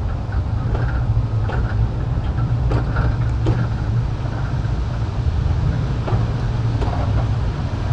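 Kurobe Gorge Railway train running on the rails, heard from the car: a steady low rumble with scattered clicks and short squeaks from the wheels.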